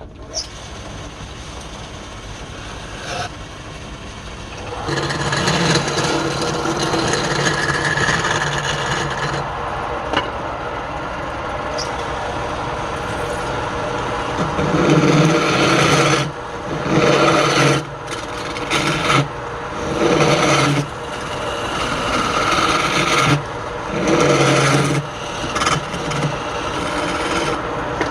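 Woodturning lathe running, with wood being worked on the spinning piece: one long continuous pass, then a run of shorter passes that start and stop every second or two.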